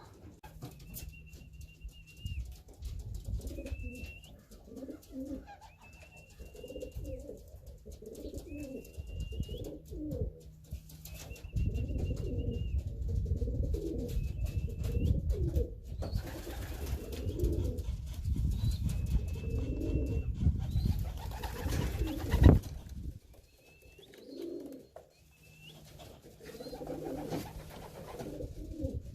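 Domestic racing pigeons cooing repeatedly, with a short high chirp repeating every second or two over the coos. A low rumbling noise joins in the middle, and there is one sharp knock a few seconds before the end.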